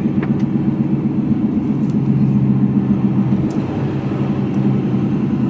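Mercedes-Benz Actros lorry's diesel engine running steadily, heard from inside the cab as a low, even hum.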